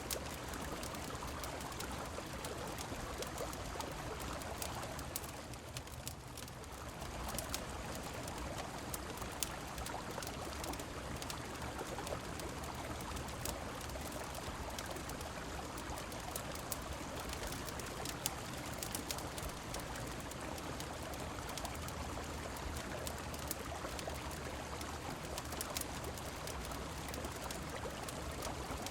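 Steady rush of a flowing river and falling rain, with scattered sharp crackles from a wood fire. The rush dips briefly about six seconds in.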